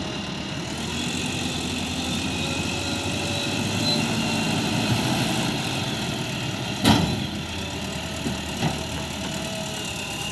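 Heavy diesel engine of a backhoe loader or tipper truck running steadily, with one sharp knock about seven seconds in and two lighter knocks shortly after.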